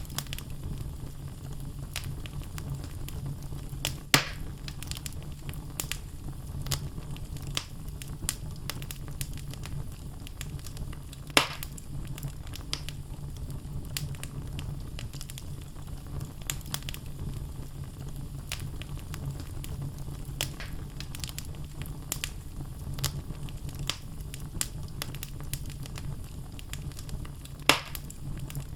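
Wood fire crackling in a fireplace: burning logs give many small snapping clicks over a steady low rumble of the flames, with three louder pops, a few seconds in, about a third of the way through and near the end.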